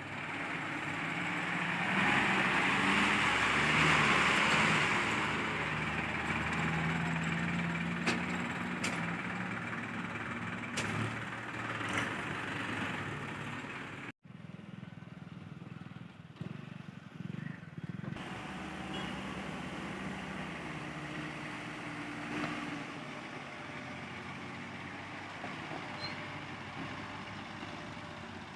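Diesel engine of a JCB 3DX backhoe loader running steadily while it loads mud. A louder rushing noise comes a couple of seconds in, and a few sharp knocks follow in the middle. The sound breaks off suddenly about halfway, then the engine carries on.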